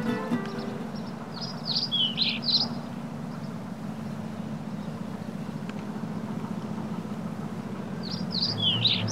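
A small bird chirping in two quick runs of high, down-slurred notes, about a second in and again near the end, over a steady low hum.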